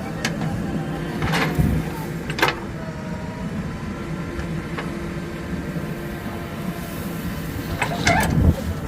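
JCB 3DX backhoe loader's diesel engine running steadily, with a few sharp knocks from the machine's work: one about a second and a half in, another a second later, and two close together near the end.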